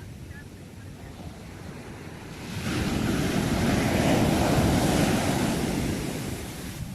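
Sea waves on a shore: a low steady surf rumble, then a wave breaks and washes in about two and a half seconds in, swelling for a few seconds and dying away near the end.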